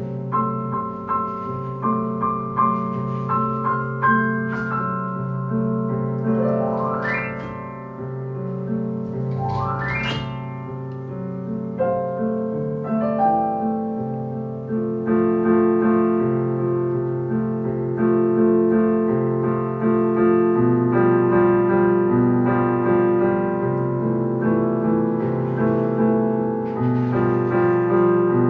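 A child improvising freely on a piano: single notes and chords, with two quick glissandos sweeping up the keys. From about halfway it becomes fuller chords over a repeating bass line.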